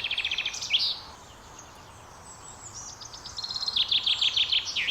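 Chaffinch singing: two song phrases of quick repeated notes, each stepping down in pitch and ending in a fast flourish. The first finishes about a second in; the second starts a little before halfway through.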